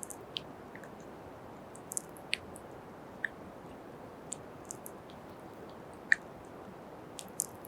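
Close-up ASMR kisses into the microphone: soft, wet lip smacks and mouth clicks, about eight of them at irregular gaps, the sharpest about six seconds in, over a steady low hiss.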